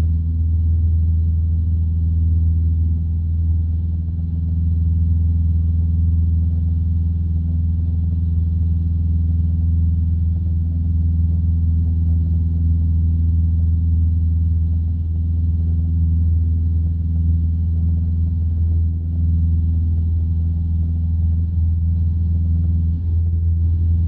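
Light aircraft's piston engine droning steadily in flight, an even, unchanging note with no change in power.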